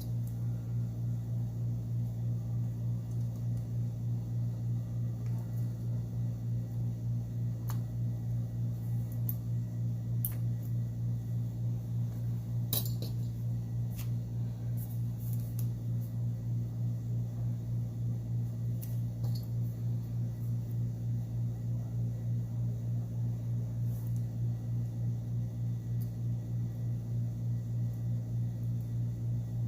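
Steady low electrical hum with a slight regular pulse, over which small tools and phone parts click and tap now and then as a Samsung Galaxy Note 8's replacement mainboard is fitted; the sharpest clicks come about 8, 10, 13 and 14 seconds in.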